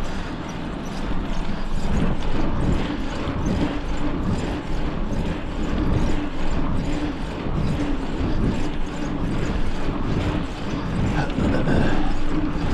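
Wind rushing and buffeting over the microphone while riding a bicycle, with a steady low hum underneath.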